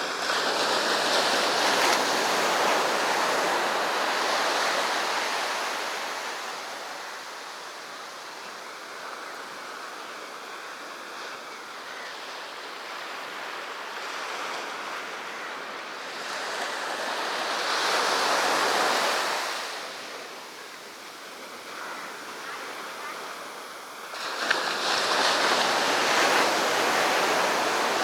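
Sea waves breaking and washing up a beach, the surf swelling and falling back in slow surges, with the louder breaks at the start, around two-thirds through and near the end.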